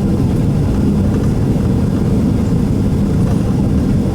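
Steady low rumble inside the cabin of a Boeing 767-300 taxiing out for takeoff: the jet engines at low taxi power and the airliner rolling along the taxiway.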